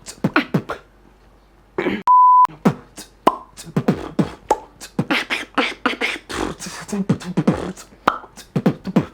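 Beatboxed tennis pops, sharp mouth pops each with a quick falling pitch, made by sucking the lower lip over the upper teeth and snapping the jaw open, strung into rhythmic patterns with other beatbox sounds. A short steady beep cuts in about two seconds in, after a brief pause.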